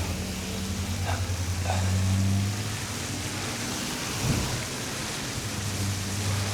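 Steady wet hiss of a slushy street, with a low engine hum fading in and out.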